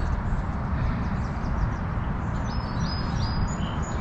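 Songbirds chirping in short high notes, several in quick succession in the second half, over a steady low rushing noise.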